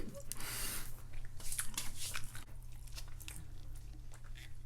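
Soft chewing and small mouth clicks close to the microphone, over a steady low hum.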